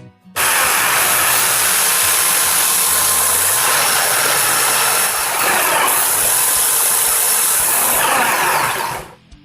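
Electric drill motor running steadily at high speed with a loud whirring, starting suddenly and cutting off near the end.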